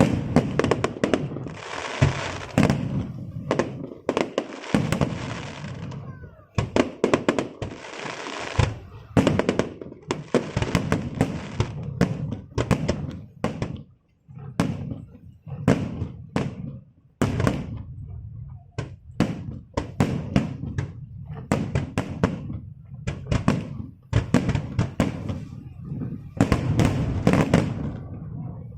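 Fireworks display going off: a rapid series of bangs and pops, broken by several crackling stretches of a second or two each, the longest near the end.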